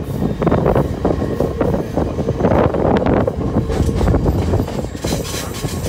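Passenger train running along the track, heard from on board: a continuous rumble of wheels on rails with many short rattles and clacks.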